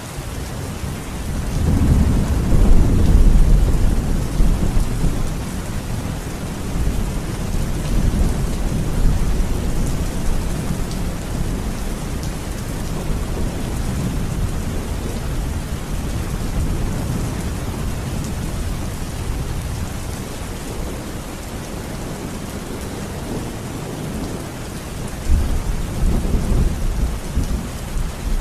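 Steady rain hissing, with rolling thunder rumbling low: one long roll swells about two seconds in and slowly fades, and another starts near the end.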